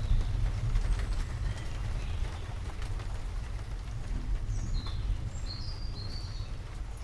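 Low rumble of distant thunder fading over the first few seconds under a steady hiss of rain, with a few short high bird chirps in the second half.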